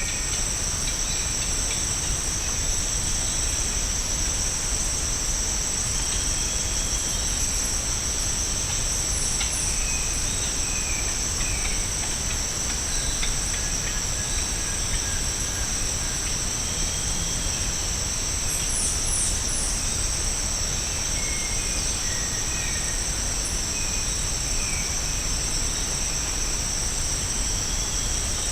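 Steady, high-pitched drone of rainforest insects, holding two constant tones throughout, with scattered short bird calls and quick high chirps over it.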